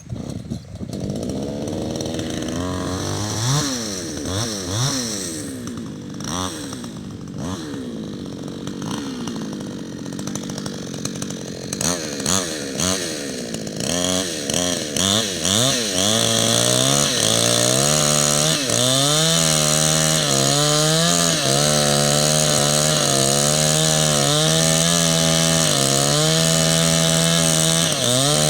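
Chainsaw revved up and down in repeated short blips, then held at high revs for the second half while cutting a notch into a coconut palm trunk.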